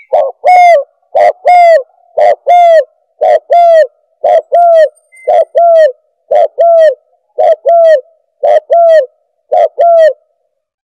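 Spotted dove (tekukur) call-lure recording: a short two-note coo repeated about once a second, ten times over, each note ending in a downward slur.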